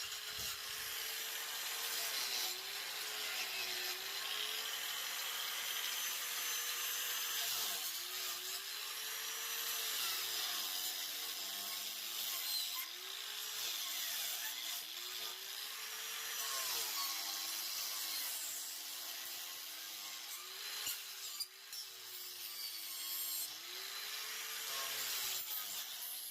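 Angle grinder fitted with a chainsaw-chain wood carving disc, running and cutting into wood. The motor's whine dips in pitch each time the chain bites in and comes back up as it eases off, over a steady rasping hiss of chips being torn out.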